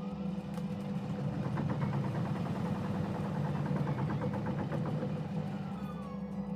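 Bosch WAX32GH1 front-loading washing machine turning its drum to balance a load of wet towels before spinning. The motor hums steadily, whining up in pitch at the start and back down near the end, with a rapid, even ticking from the turning drum in between.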